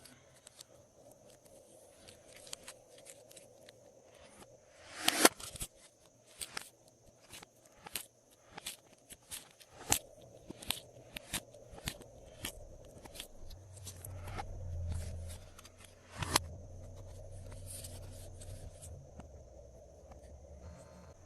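Glossy slime being squished and stretched by hand, giving a string of small sticky clicks and pops, with louder squelches about five seconds in and about sixteen seconds in.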